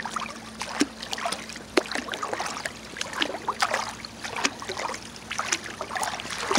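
Oars dipping and dripping as an inflatable raft is rowed across a small pond: irregular light splashes and trickling water, over a faint steady hum.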